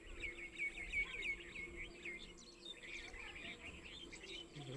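Small birds chirping: a quick run of short, repeated chirps for the first couple of seconds, then more scattered calls, over a faint steady hum.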